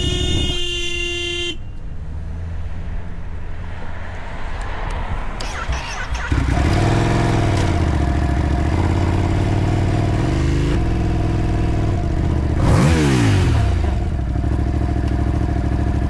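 A vehicle horn sounds briefly and stops about a second and a half in, followed by road traffic noise. From about six seconds in a motorcycle engine runs with its revs rising and falling, and near the thirteenth second its pitch sweeps sharply down.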